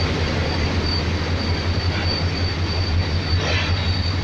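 Passenger coaches of a departing train rolling past at low speed: a steady low rumble with a thin, steady high wheel squeal, and two faint knocks of wheels over rail joints about two and three and a half seconds in.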